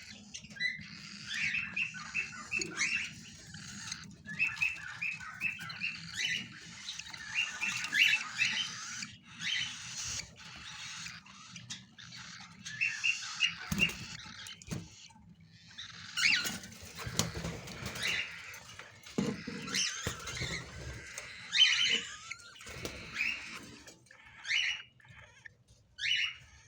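Cockatiel chick begging while being fed: runs of quick, short chirps, several a second, that come in bursts and pause, with a few soft knocks in the middle.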